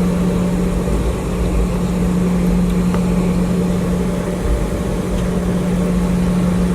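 Steady drone of an airliner's engines heard inside the passenger cabin: a constant hum over a low rumble.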